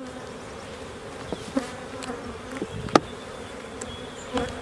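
Carniolan honey bees buzzing around an open hive, single bees droning past with wavering pitch. A few light knocks and one sharp click about three seconds in.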